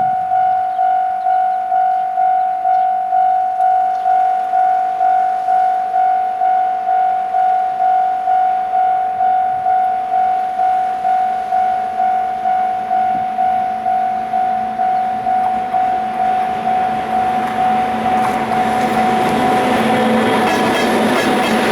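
Level-crossing warning bell ringing steadily at about two dings a second. In the last few seconds an EF510 electric locomotive hauling container wagons draws near and grows louder, with wheels clicking over the rail joints near the end.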